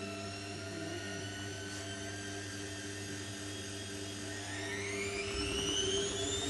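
Zanussi Lindo 100 washing machine in its final spin: the motor and drum whine steadily, then about four and a half seconds in the whine rises sharply in pitch and gets louder as the drum speeds up towards its 1400 rpm top spin.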